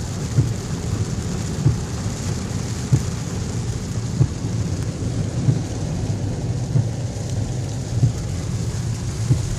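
Inside a car driving through floodwater: a steady low rumble from the car and the water under it, with a short thump about every second and a quarter.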